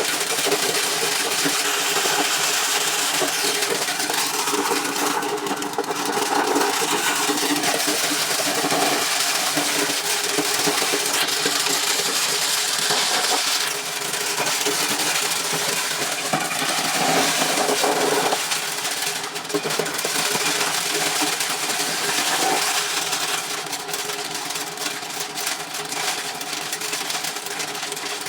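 A motor-driven corn-shelling machine running steadily: an engine drone with a dense hiss over it.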